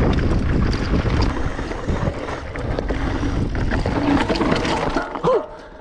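Wind buffeting the microphone over the rumble and scrape of riding down a bumpy snow slope, dropping away about five seconds in as the rider slows.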